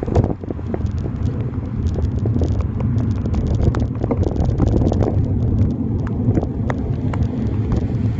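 Wind rumbling over a handlebar-mounted phone's microphone inside a waterproof bag while cycling in heavy rain, with many sharp irregular ticks and taps on top.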